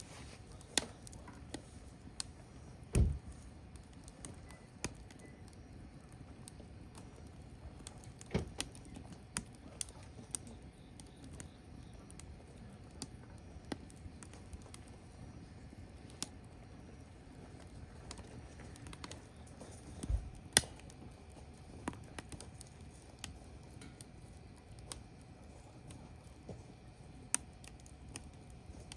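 Wood campfire crackling: irregular sharp pops and snaps over a faint steady hiss, with a few louder low thumps.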